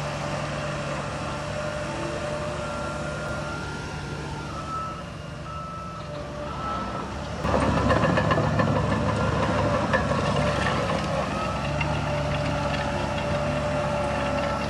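Diesel engines of heavy earthmoving machines running steadily, with a reversing alarm beeping in short repeats. About halfway a louder clattering, rattling noise starts suddenly and keeps on.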